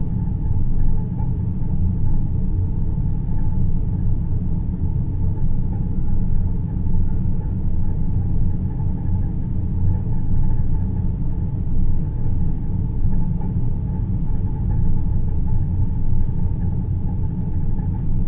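Steady, deep rumbling noise from a synthesized deep-space sleep ambience, with most of the sound in the low end and little above it.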